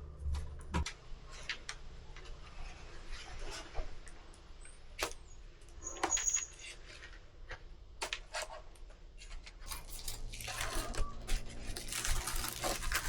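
Scattered light clicks, taps and clinks of small objects being handled, with a denser stretch of rustling noise near the end.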